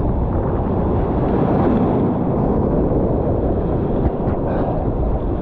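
Strong wind buffeting the microphone, a steady low rumbling noise, with heavy surf on the rocks beneath it.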